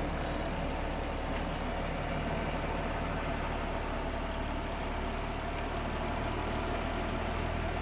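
Mercedes-Benz Unimog U1700L truck's diesel engine running steadily, a constant low drone with no change in engine speed.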